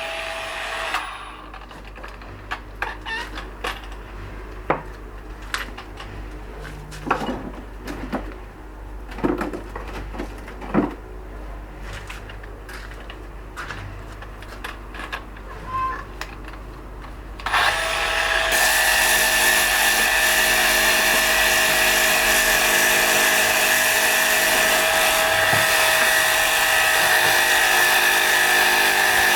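A power tool working stone, with a steady whine, stops about a second in. A quieter stretch of scattered taps and knocks follows. About seventeen seconds in the tool starts again and runs steadily.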